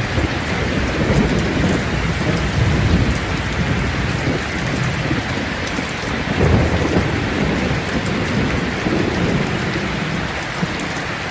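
Steady rain with rolling thunder rumbling underneath, the rumble swelling about halfway through.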